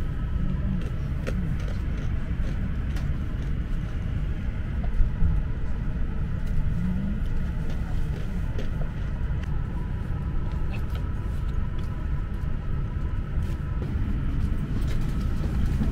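Low steady cabin rumble inside an E6-series Shinkansen Komachi carriage, with scattered faint ticks and a brief knock about five seconds in.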